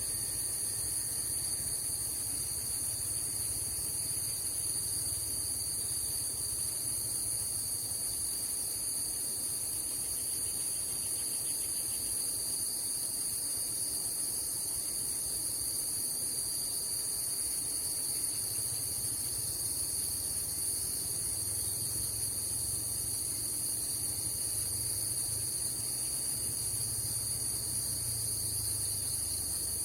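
Steady, continuous high-pitched drone of a forest insect chorus, with no break or change in level.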